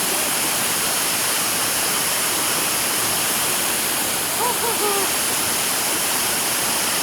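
Waterfall pouring, a steady rush of falling water. About four and a half seconds in, a short human call rises briefly above it.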